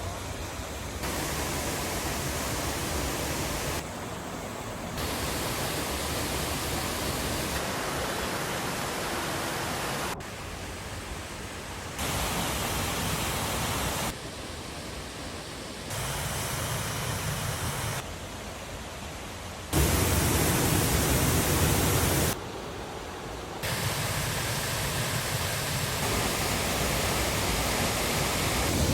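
Waterfall: a steady rush of falling water, a full-range hiss and rumble. It jumps abruptly in loudness and tone every few seconds, loudest in a stretch a little past two-thirds of the way in.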